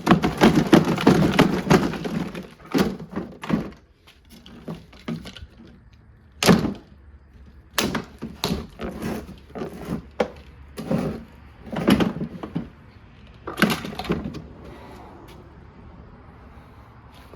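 Plastic parts of a portable washing machine being smashed and broken apart. There is a dense rattling clatter for the first couple of seconds, then a series of separate thuds and cracks, roughly one every second or two.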